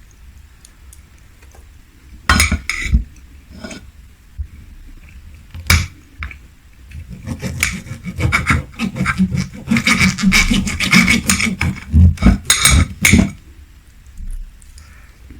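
Cutlery clinking and scraping against a plate: a few separate clinks in the first seconds, then several seconds of rapid scraping and clatter.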